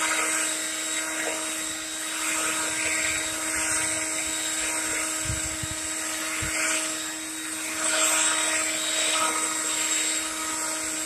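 Leaf blower running steadily, a constant motor whine over rushing air, blowing grass clippings off a freshly mowed lawn; it swells slightly in loudness a couple of times.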